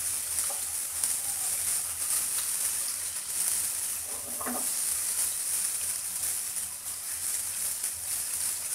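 Marinated prawns sizzling in a little rice bran oil in a non-stick frying pan, a steady high hiss, with a spatula turning them at the start.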